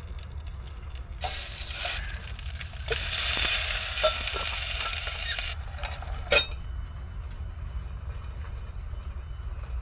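Lasagna sizzling in a hot pot in two bursts, with light knocks of a utensil against the pot as it is stirred and a sharp clink about six seconds in. A steady low rumble runs underneath.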